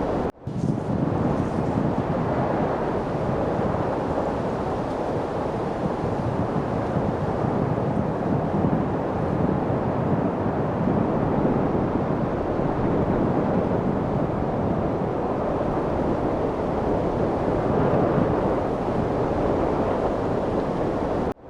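Steady light wind noise, a low, even rushing hiss. It cuts out for an instant just after the start and again near the end.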